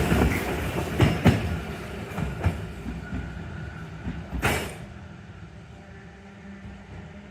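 Randen Kitano Line tram running past and moving away, its wheels clacking over rail joints a few times while the running noise fades. A brief hiss comes about four and a half seconds in.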